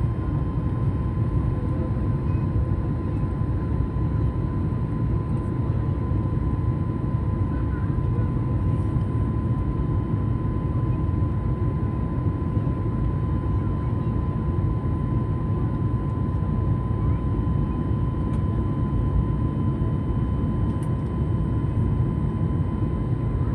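Steady roar of a passenger jet's engines and airflow in flight, with a faint steady whine held above it.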